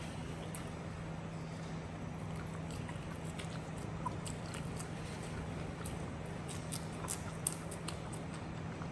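Close-up chewing of crisp fried risoles and pastel: scattered small crunches, crackles and mouth clicks, busiest in the second half, over a steady low hum.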